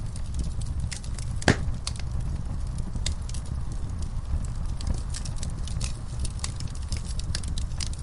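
Wood fire crackling, with irregular sharp pops and snaps and one louder pop about a second and a half in, over a low steady rumble.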